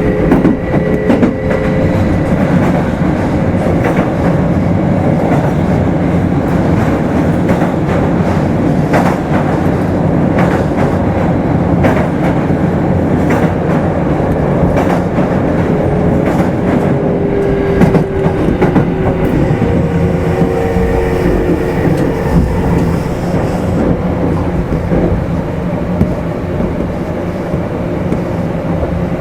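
Kintetsu 5200 series electric train running at speed, heard from inside motor car Mo 5257: a steady rumble of wheels and running gear with scattered clicks over the rail joints.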